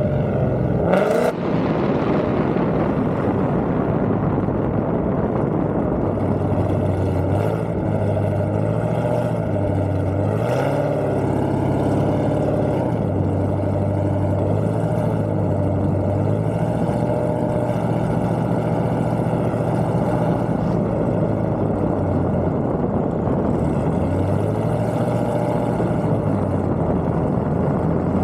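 Car engine running at idle with a rough, uneven note whose pitch drops and rises every few seconds.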